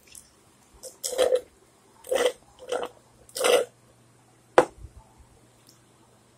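A person chewing a crunchy rice cake close to the microphone: four loud crunching bursts about half a second to a second apart, then a single sharp click.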